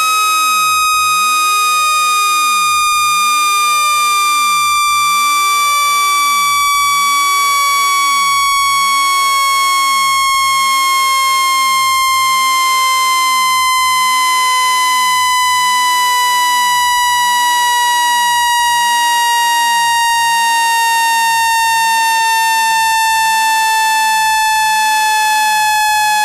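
Generated speaker-cleaning tone: a loud, steady, buzzy electronic tone with strong overtones, gliding slowly and evenly downward in pitch, meant to shake dust out of a phone speaker.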